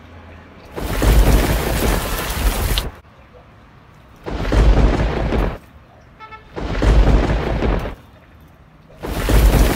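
Heavy rain with a deep thunder rumble, a rainstorm sound effect that switches on and off abruptly in four loud bursts of one to two seconds each, with quieter gaps between.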